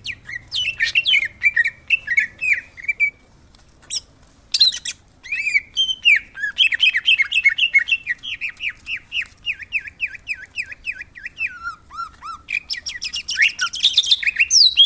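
Greater green leafbird singing: fast, varied phrases of sharp downslurred notes, with a long run of evenly repeated notes in the middle that drops lower toward its end, then a burst of higher, busier notes at the close.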